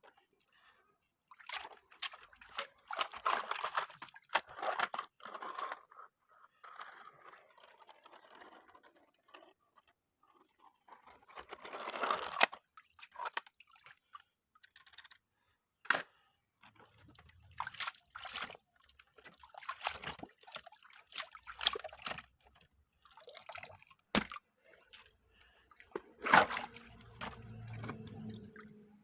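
Water splashing and sloshing in short, irregular bursts, with a few sharp clicks in between.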